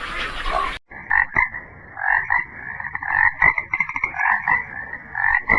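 Frog croaking: repeated bouts of short, rapid pulsed croaks, starting about a second in after a cut from a different sound.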